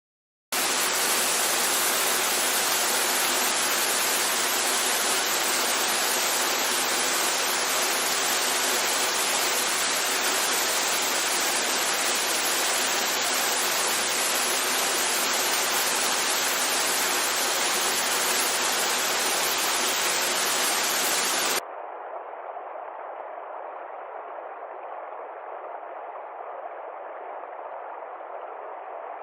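Steady rushing water, starting abruptly. About three quarters of the way through it cuts suddenly to a quieter, thinner steady hiss.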